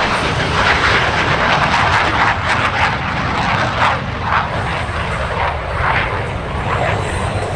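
Loud, steady airplane engine noise with a rough crackle, from an aircraft flying a display pass.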